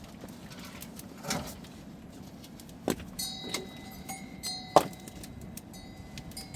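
A few separate knocks, then metallic clinking with a steady bell-like ringing from about three seconds in.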